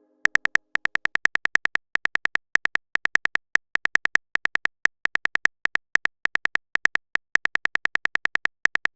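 A fast, uneven string of short electronic beeps, all at the same high pitch: a typing sound effect for chat text appearing letter by letter.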